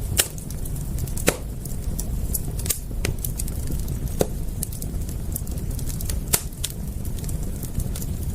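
Wood fire crackling, with sharp pops scattered irregularly over a steady low rumble.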